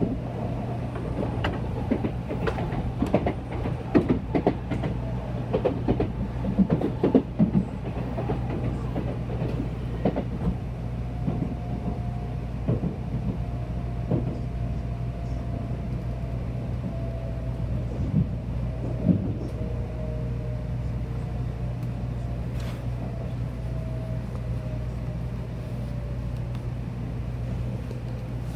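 Cabin sound of a Shinkansen bullet train: a steady low rumble with a run of sharp, irregular clacks from the wheels over rail joints and points in the first ten seconds or so. After that a faint whine slowly falls in pitch as the train slows on its approach into a station.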